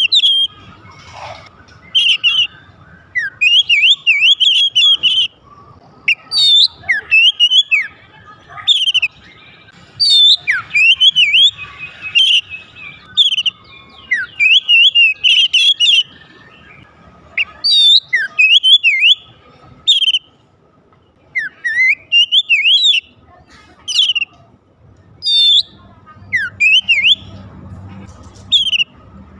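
Oriental magpie-robin (kacer) singing loudly: quick, varied whistled phrases that sweep up and down, delivered in short bursts with brief pauses between them.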